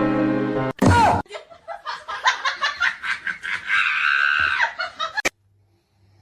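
Soft keyboard music, cut off about a second in by a short loud cry. A person then laughs in quick bursts, with a high squeal near the end. Everything stops abruptly a little after five seconds.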